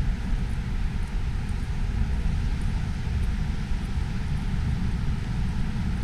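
Wind buffeting the microphone in a snowstorm: a steady, gusty low rumble over an even hiss.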